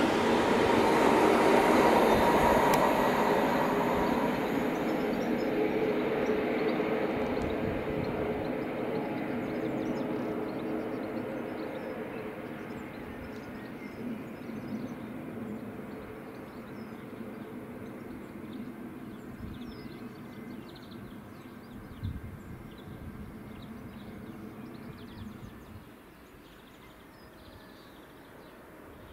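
An LNER Class 91 electric locomotive and its Mk4 coaches run through at speed, loud at first, then the train's noise fades steadily as it goes away into the distance.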